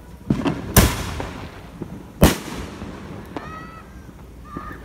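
Fireworks going off: a couple of small pops, then two loud sharp bangs about a second and a half apart, each with a short echo.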